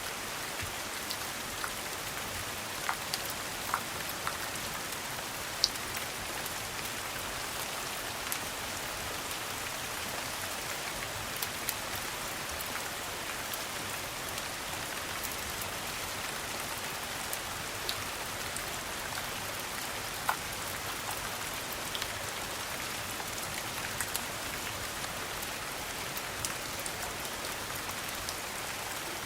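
Steady rain, an even hiss, with occasional sharp ticks and pops scattered through it.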